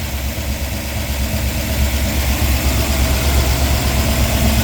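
1958 Ford F100's Y-block V8 running at a steady idle, getting a little louder about a second and a half in. It is running on its own fuel pump, just revived after 40 years sitting.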